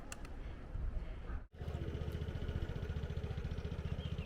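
An engine idling with a steady, fast throb that starts abruptly about a second and a half in; before that, only faint background noise.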